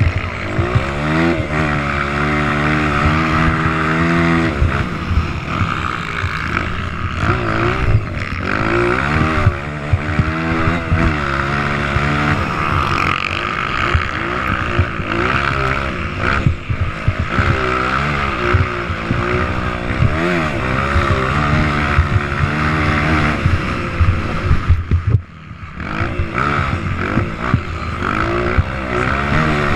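Motocross motorcycles revving hard on the track, their engine pitch climbing through each gear and dropping back again and again, with more than one bike heard at times.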